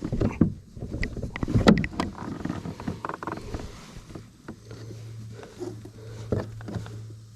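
Irregular knocks and rustles of a smallmouth bass being handled and flopping against a kayak while it is laid on the kayak's measuring strip. A low steady hum comes in about halfway through.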